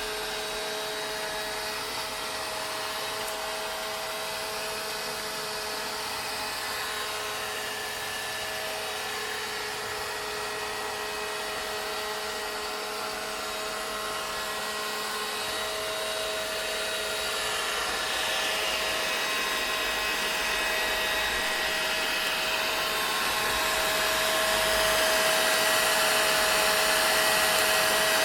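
Vacuum cleaner running steadily: a constant motor whine with a rushing hiss of air, growing somewhat louder past the middle.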